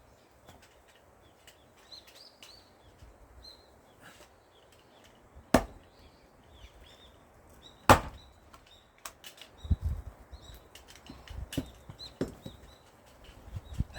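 Large forged axe chopping into pine firewood rounds: two sharp, loud chops about two seconds apart, followed by a run of lighter knocks and thuds.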